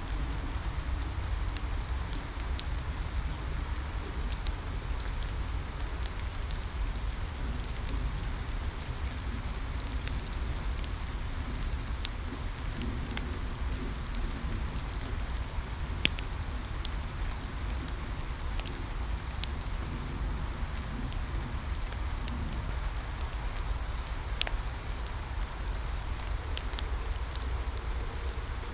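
Steady rain falling, with a bonfire crackling: scattered sharp pops and snaps over the hiss, the loudest about 12 and 16 seconds in.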